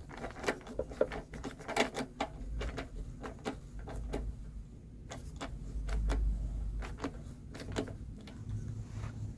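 Ratchet clicking in quick, uneven strokes as a bolt is run down to hold an engine's air cleaner assembly in place.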